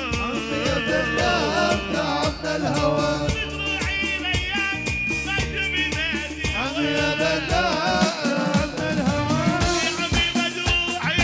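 Live Arabic party music: an ornamented melody that slides and bends in pitch over a steady, fast drum beat.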